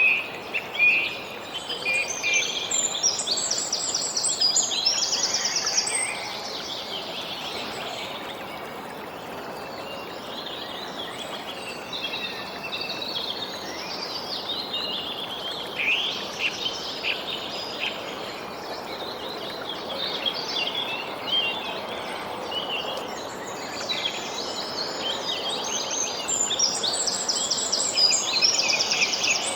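Several songbirds chirping and singing over a steady background hiss, with a fast, high trill a few seconds in and again near the end.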